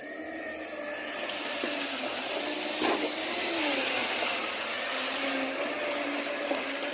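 A motor running steadily with a loud hiss and a whine that wavers in pitch, and one sharp click about three seconds in.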